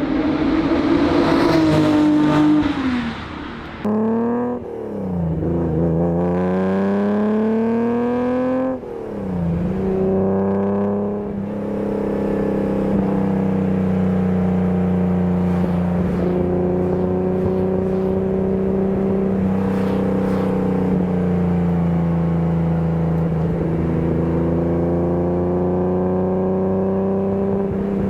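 1983 BMW E30 323i's 2.3-litre straight-six pulling through the gears: the revs climb and drop back several times in the first ten seconds, then settle to a steady cruise with slight rises and falls.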